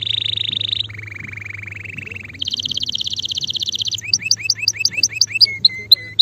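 Male canary singing: a string of rapid trills that change pitch from one to the next, the second lower and softer, followed about four seconds in by a run of quick rising notes, about eight a second, and a few short lower notes near the end.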